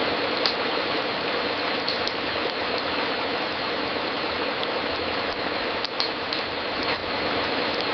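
Wood fire crackling in a fireplace: a steady hiss with a few scattered sharp pops.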